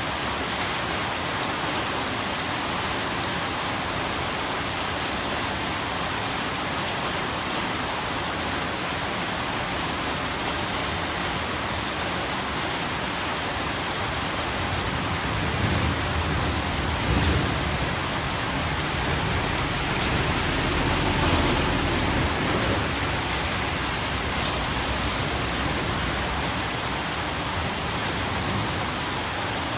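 Steady rain falling in an even hiss, with a low rumble swelling and fading about halfway through.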